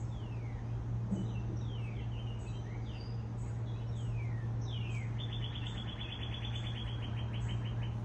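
Songbirds singing outdoors: several quick whistles that drop in pitch, then from about five seconds in a rapid trill of evenly spaced notes lasting about three seconds. A steady low hum runs underneath.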